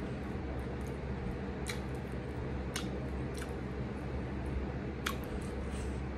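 A person chewing a shrimp taco with the mouth closed, heard as scattered sharp wet mouth clicks over a steady low background hum.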